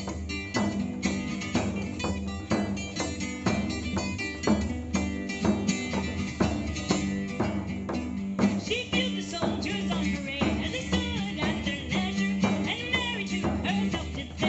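A Celtic folk band playing an instrumental break: strummed strings keep a steady beat over a held low note, and a wavering melody line comes in about halfway through.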